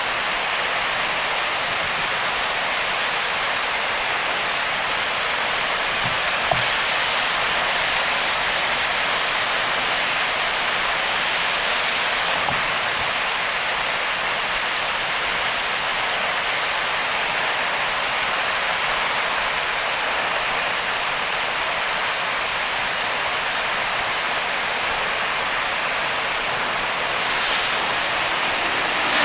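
Heavy rain and tyre spray on a wet expressway heard from a moving car: a steady, loud hiss, with a brief click about six seconds in and a swell near the end.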